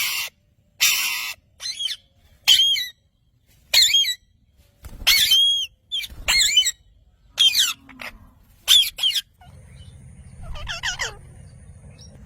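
Pet parrot giving short, loud, harsh squawks and screeches about once a second, many of them sweeping sharply up and down in pitch. Near the end the calls thin out to a few fainter chirps over a low hum.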